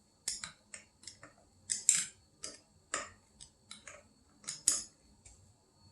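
Screwdriver working the ceiling fan's blade screws as they are checked for tightness: irregular light metallic clicks and ticks, about two or three a second, louder about two seconds in and near the end.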